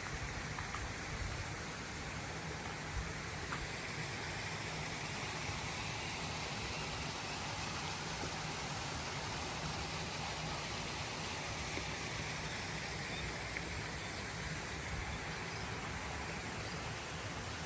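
Steady rushing water noise, with a couple of soft low thumps in the first few seconds.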